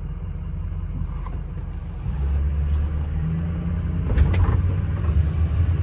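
Ford F250's 6.0 Power Stroke V8 turbo-diesel running while the truck is driven, a low rumble that grows louder about two seconds in. No funny noises and no vibrations, as the driver puts it.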